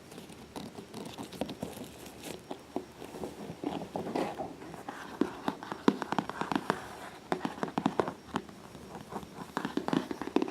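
Hands working over a soft-sided Whisker City cat carrier of fabric and faux leather: irregular taps, scratches and crinkling, busier in the second half.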